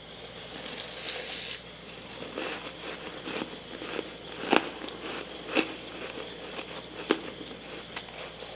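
Soft freezer frost being chewed close to the microphone: a soft hiss near the start, light crackling, then four sharp crunches in the second half.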